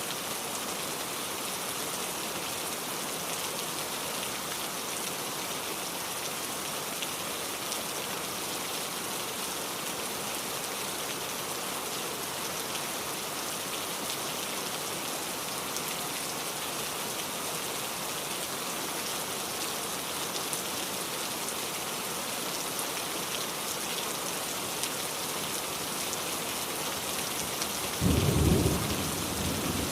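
Steady rain falling. Near the end a short crack of thunder breaks out, deep and louder than the rain, then fades.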